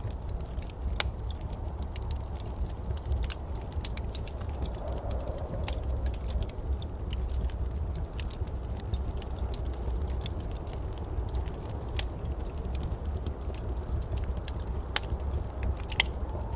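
Wood fire in a fireplace crackling: irregular sharp pops and clicks over a steady low rumble, with one louder pop near the end.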